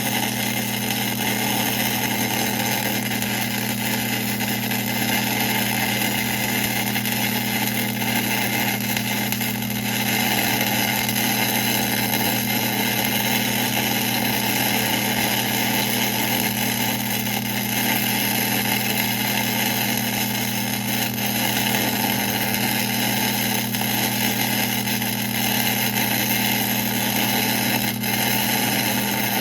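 1966 LeBlond geared-head lathe running steadily, its motor and gearbox giving an even hum with a constant noise over it.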